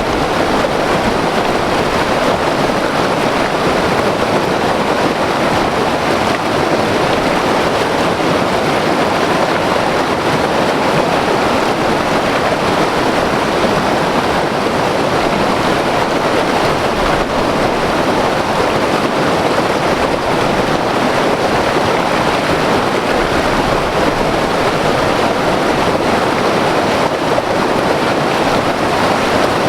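White water river rushing over rocks: a steady, loud roar of turbulent water.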